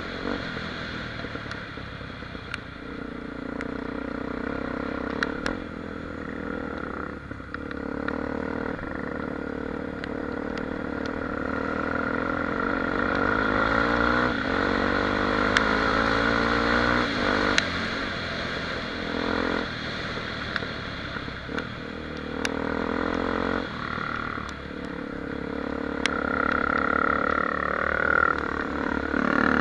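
Honda XR 250 Tornado's single-cylinder four-stroke engine running while riding, its pitch rising and falling with throttle and gear changes. There are scattered sharp clicks and knocks throughout.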